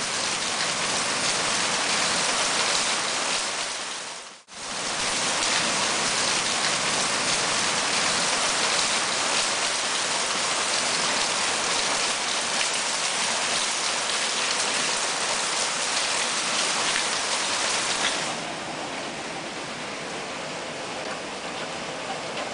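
Heavy rain pouring down steadily as a dense hiss, with a brief dropout about four seconds in. About eighteen seconds in it becomes quieter and duller.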